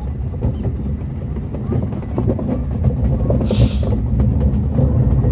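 Miniature park train rolling along its track, heard from a riding car as a steady low rumble, with a brief hiss about three and a half seconds in.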